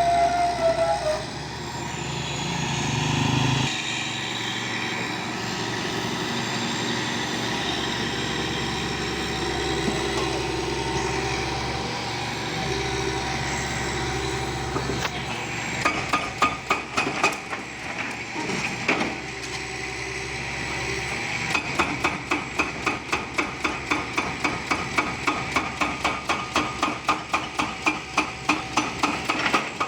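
Demolition work: a heavy machine running steadily, then repeated hammering blows on masonry starting about halfway through, settling into a regular beat of about two or three blows a second.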